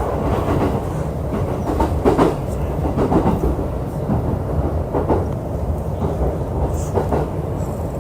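JR E531-series electric multiple unit running at speed, heard from inside the passenger car: a steady rumble of wheels on rail with irregular clacks as the wheels cross rail joints.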